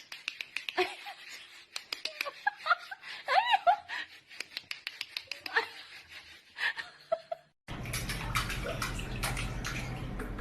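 Scattered sharp clicks and short high chirping calls that rise and fall, then, after an abrupt change about three-quarters of the way through, a steady rush of running water.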